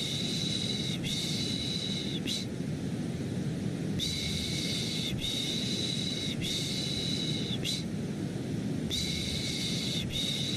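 Rhythmic 'shh' shushing to lull a baby to sleep: hissy shushes about a second long in sets of three, a pause of about a second and a half between sets. Underneath runs a steady low rushing white noise.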